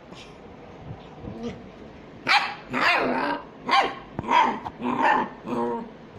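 Small dog barking: about six sharp barks in quick succession, starting about two seconds in.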